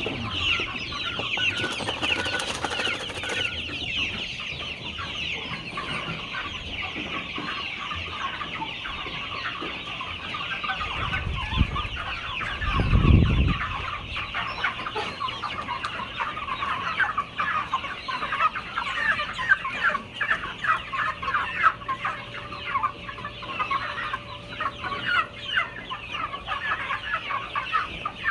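A flock of chickens clucking and calling continuously, many birds at once. About twelve seconds in there is a brief low rumble, the loudest moment.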